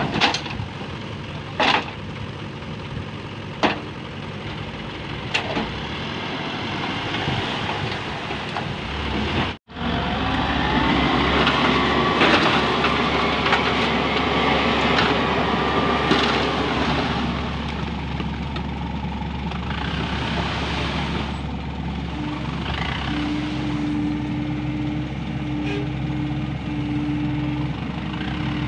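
Heavy diesel engines of dump trucks and loading machinery running steadily, with a few sharp knocks in the first six seconds. After a brief break about ten seconds in, the engines run louder, and a steady tone sounds near the end.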